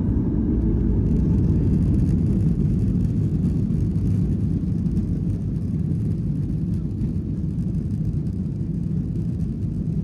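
Boeing 737-900ER cabin noise during the climb after takeoff: the steady, deep rumble of its CFM56-7 turbofan engines and the airflow past the fuselage, heard from inside the cabin.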